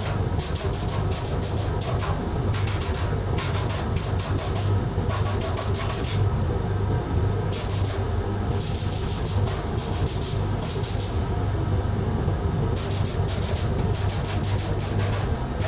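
Sandblaster in use: the compressed-air blast gun hisses in repeated on-off bursts of a second or two over a steady low hum of machinery.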